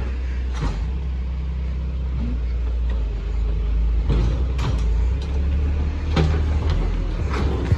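Garbage truck's engine running steadily, with several sharp metallic knocks and clanks over it.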